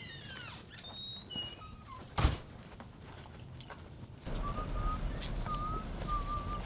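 Songbird singing a run of descending whistled notes, then a single loud thunk like a door shutting about two seconds in. From about four seconds a steady low rumble sets in, with short repeated high notes over it.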